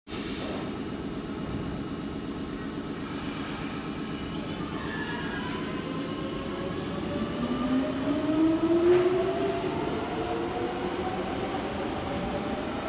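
Nagoya subway train running with a steady rumble. From about seven seconds in, its electric traction motors give a whine that rises in pitch as the train accelerates.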